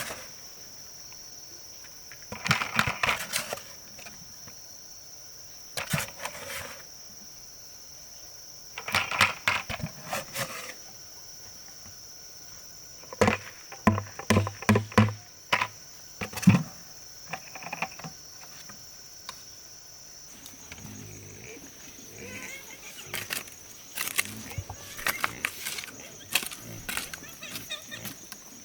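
Steady high-pitched drone of insects, broken by repeated short bursts of knocking and scraping from hand work.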